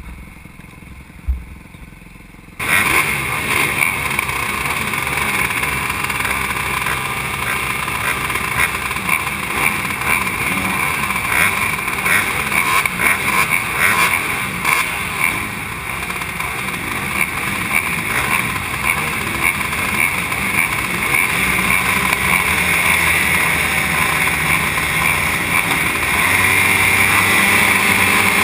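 Motocross bike engine running hard, rising and falling in revs, with wind noise and frequent knocks. It comes in suddenly and loud about two and a half seconds in, after a quieter start.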